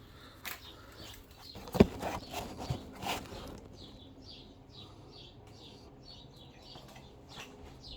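A few sharp clicks and knocks from the plastic air-filter housing and intake parts being handled and worked loose, the loudest about two seconds in. From about the middle, a bird chirps repeatedly in the background.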